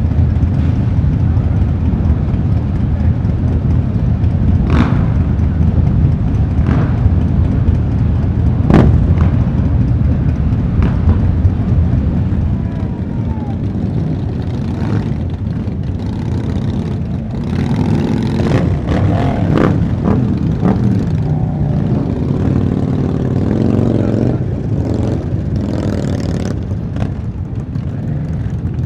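Motorcycle engines running with a loud, steady low rumble, a few sharp clicks in the first half, and engine notes rising and falling in the second half.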